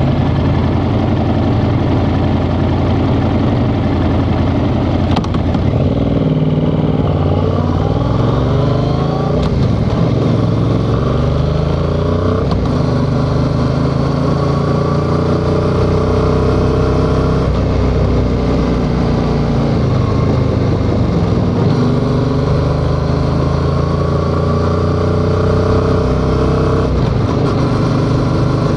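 Yamaha XSR700's 689 cc parallel-twin engine, steady and low for the first few seconds, then pulling away: the revs climb and drop back with each upshift, several times over.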